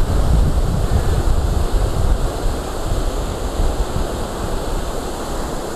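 Floodwater rushing steadily, with wind buffeting the microphone in a deep, uneven rumble.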